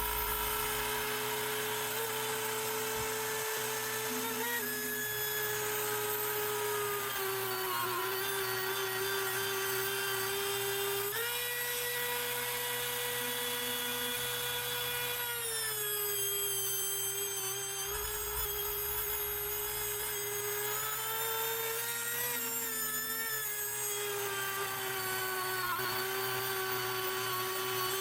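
CNC router spindle with a 1.5 inch fly-cutting wheel running and surfacing an American mahogany slab. Its steady whine steps up and down in pitch every few seconds.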